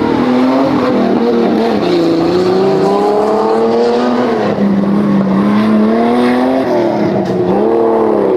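Off-road 4x4 engine revving hard under load, its pitch rising and falling repeatedly. It dips about two seconds in, then drops and climbs again near the end.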